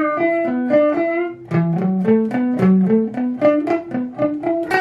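Guitar playing a quick run of single picked notes, a pentatonic scale sequence climbing and stepping back in small groups.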